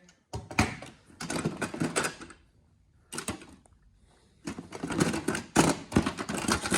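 Rattling and clattering of small hard objects being handled and rummaged through, in three bursts of rapid clicks and knocks: one near the start, a short one about three seconds in, and a longer one from about four and a half seconds.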